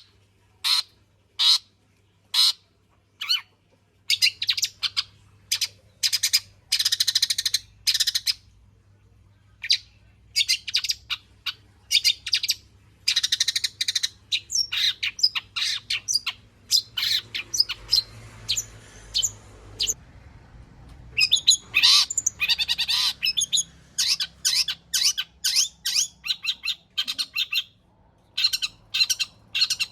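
Long-tailed shrike (cendet) singing in full song: four sharp separate notes about a second apart, then long runs of rapid, harsh chattering phrases strung with mimicked calls of other birds, with a short lull a little past the middle.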